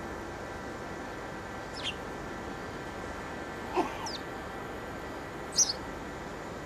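Birds giving short, high, falling calls, four in all: one about two seconds in, two close together around four seconds, and the loudest near the end. A steady hiss runs underneath.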